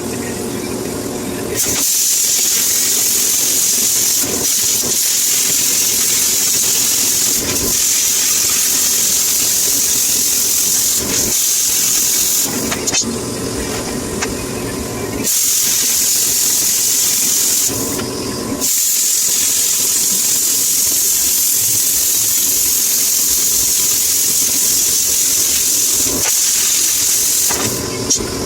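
A strip of Hardox wear-resistant steel being cut lengthwise, giving a loud, steady hissing cut sound in long runs. The cut pauses briefly twice, about twelve and eighteen seconds in.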